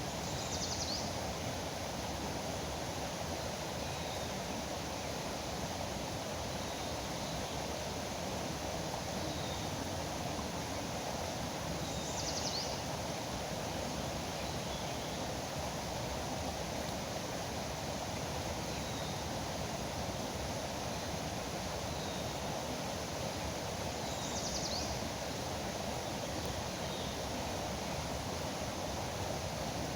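Steady rush of river water, with a bird giving a short high call three times, about twelve seconds apart, and fainter chirps between.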